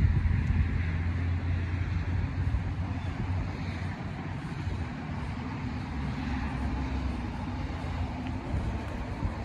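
Steady low hum of a vehicle engine running, a little louder at first and then easing slightly.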